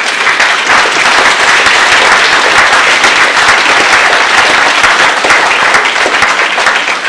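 Audience applauding: many people clapping at once, easing off slightly near the end.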